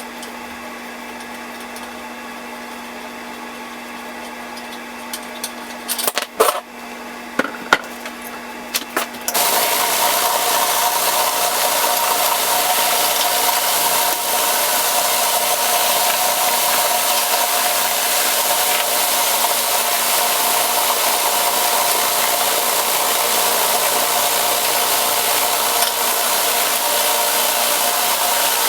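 Workshop machinery: a steady hum with a few clicks and knocks, then about nine seconds in a loud, steady rushing noise with a whine in it starts up and keeps going, as a powered tool is set to work.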